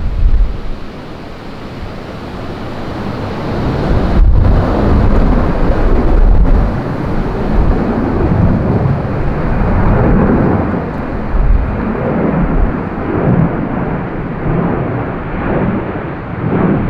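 Jet airliner's engines rumbling as it passes, growing loud about four seconds in and then slowly easing, with gusting wind buffeting the microphone.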